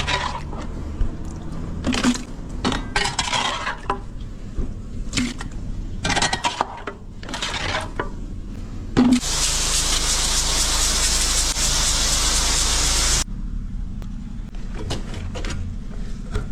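Scattered clatter and knocks of hard objects being handled, then about four seconds of a steady hiss of rushing water that cuts off suddenly, followed by more light knocks.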